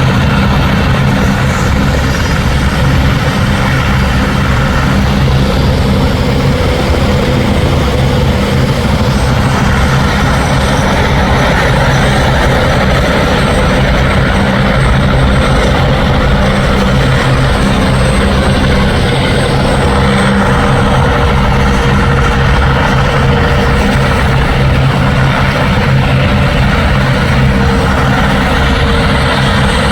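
Helicopter running close by: steady, loud rotor and turbine noise, with a higher whine joining partway through.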